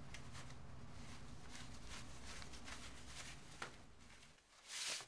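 Quiet room tone with faint rustling of a shirt and necktie being handled, and one louder short swish near the end as the tie is loosened and pulled.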